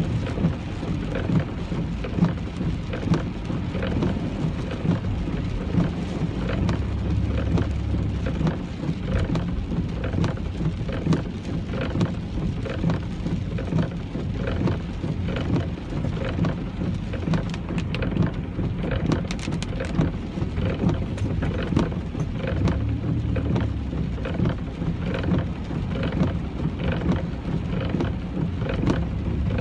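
Rain pelting a moving car's roof and windshield as dense irregular ticks, over the steady low rumble of the car and wet road heard from inside the cabin. A deeper low rumble swells briefly twice.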